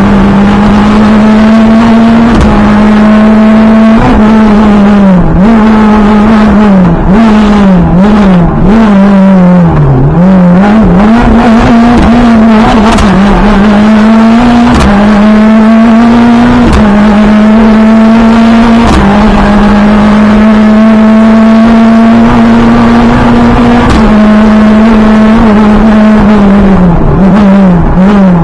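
Renault Clio F2014 rally car's engine heard from inside the cockpit, very loud and held at high revs under full throttle. It drops and climbs again several times in quick succession about a third of the way in and again near the end, as the car lifts and re-accelerates.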